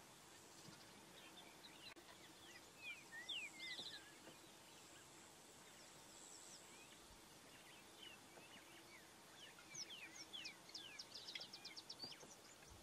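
Faint chorus of several wild birds calling: short chirps, whistled slurs and quick trills, busiest about three seconds in and again near the end.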